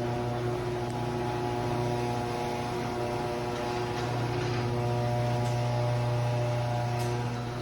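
Garage door opener motor running as it closes the door, a loud steady hum that stops about seven and a half seconds in.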